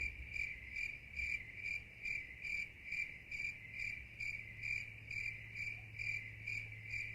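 A cricket chirping in an even rhythm, about two and a half chirps a second, faint over a low steady hum.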